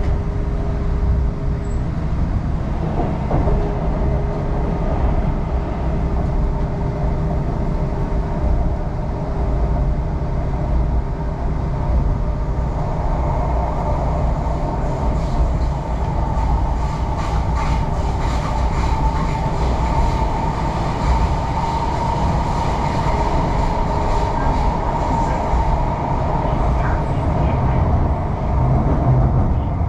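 MTR East Rail line R-Train electric multiple unit running between stations: a steady rumble of wheels on rail under a humming tone from the traction equipment. The hum strengthens through the middle, where there is a run of faint regular clicks.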